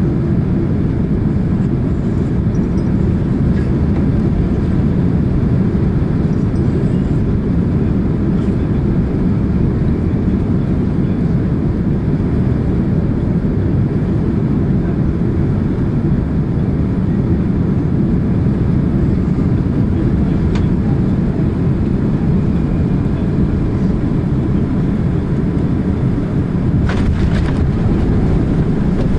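Steady, loud rumble of a Boeing 767-300ER heard from inside the passenger cabin: engine and airflow noise with no change in level, and a couple of faint rattles near the end.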